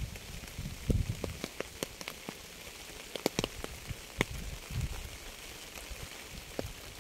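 Rain falling steadily, with individual drops ticking and plinking sharply and irregularly close by, and occasional low thumps underneath.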